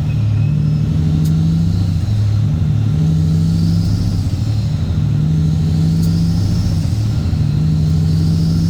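Straight-piped Cat C15 ACERT inline-six diesel in a Kenworth W900 truck, running loud and steady. Its deep exhaust drone steps up and down in pitch every second or two.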